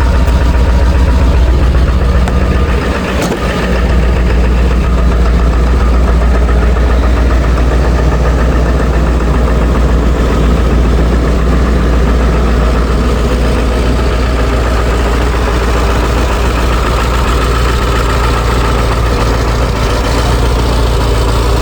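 Ford 7.3L Powerstroke V8 turbo-diesel idling steadily just after a cold start, warming up. About three seconds in there is a brief dip in the engine's note and a single sharp click.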